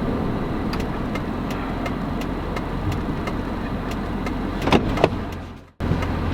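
Vehicle driving with a trailer in tow, with a rhythmic clicking about three times a second from the trailer: a wheel lock left on the wheel, which may have sheared. Two louder knocks come near the end, then the sound cuts out for a moment.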